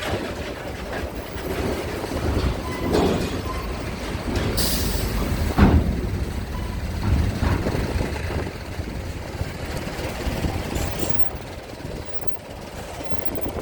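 Heavy low rumble of ferry and vehicle machinery at a port, with scattered metallic clanks and a sharp knock about five and a half seconds in.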